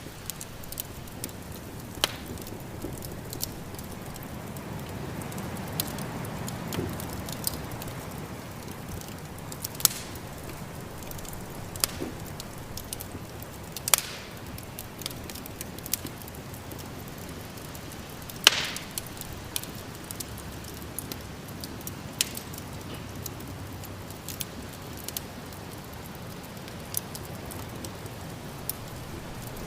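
Wood fire crackling, with sharp pops every second or two; the loudest comes about 18 seconds in. Under it runs a low steady rumble of snowstorm wind.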